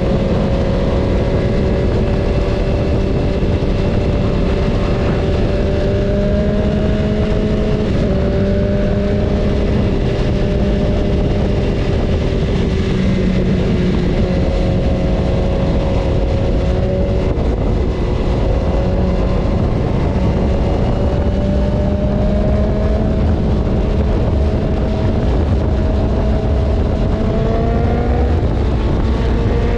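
BMW S1000RR inline-four engine running at steady road speed over a heavy low rush of noise, its pitch dipping briefly about eight seconds in and climbing near the end.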